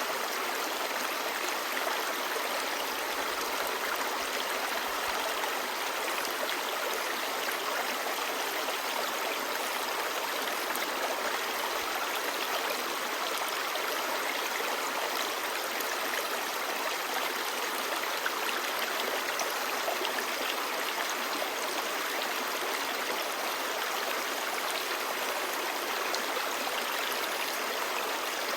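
A clear, shallow river babbling steadily, an even rushing and gurgling of water that does not change.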